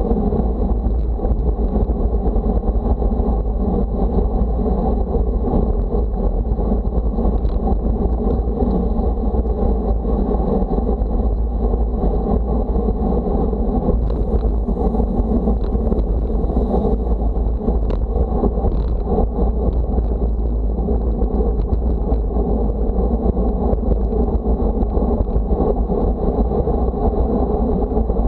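Loud, steady wind buffeting the microphone, a continuous low rumbling rush.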